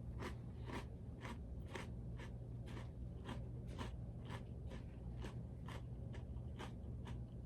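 A person chewing a buttery Club cracker: a steady run of soft crunches, about two a second.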